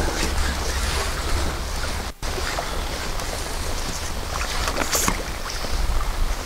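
Steady rain falling, a dense hiss with fine scattered ticks, over a low wind rumble on the microphone. The sound breaks off for a moment about two seconds in.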